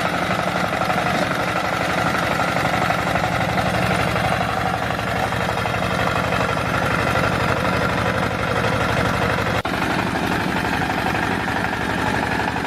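An engine running steadily with a fast, even chug, with a momentary break about three-quarters of the way through.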